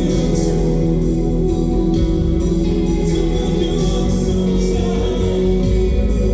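Live band playing loud amplified music, with guitar and singing over a steady full low end.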